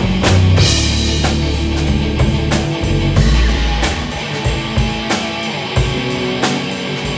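Instrumental rock jam in A major: drum kit keeping a steady beat under sustained low bass and synth-bass notes, with electric guitars and ambient effects layered on top.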